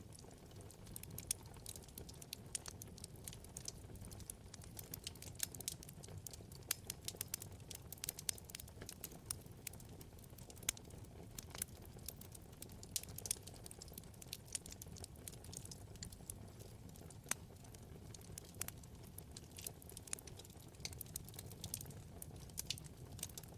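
Wood fire burning in a fireplace: frequent sharp, irregular crackles and pops over a low, steady rumble of flame.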